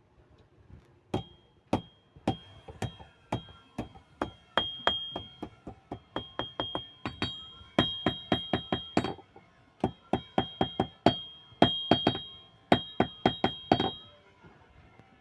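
Blacksmith's hand hammer striking a steel spear tip on an anvil: a long run of sharp ringing metal blows, about two to three a second, starting about a second in, with two short pauses.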